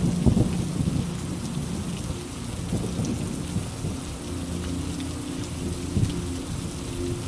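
Steady rain falling, with a rumble of thunder that is loudest in the first second and then eases into a low, steady roll.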